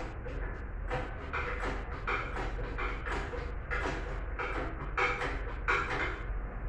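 Irregular metallic clanks and scrapes of tools and parts during engine dismantling, about one or two knocks a second over a steady low hum.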